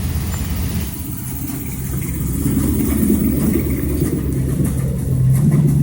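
A car engine running low and steady, rising a little in pitch and level near the end.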